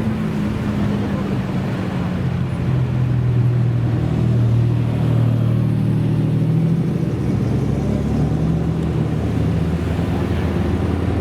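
Car engine running at fairly steady, low revs, its note shifting a little in pitch now and then.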